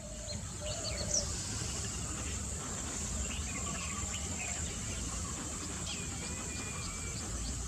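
Natural outdoor ambience: a steady high-pitched insect drone with scattered short bird chirps over a low rumble.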